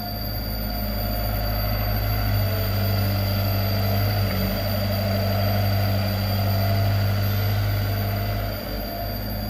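Komatsu PC75 excavator's diesel engine running steadily with a deep hum, a little lower for a moment near the end.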